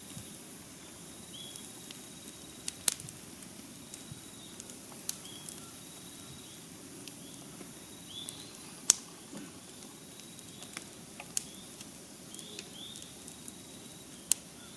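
Wood campfire crackling, with scattered sharp pops; the loudest come about three, nine and fourteen seconds in.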